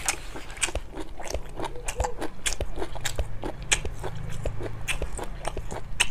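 A person chewing food close to the microphone: a steady run of small clicking and crackling mouth sounds.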